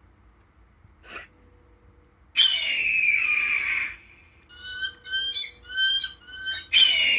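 Recorded bald eagle calls: a long, high, descending scream, then a run of four or five short high chirps, then another long descending scream starting near the end.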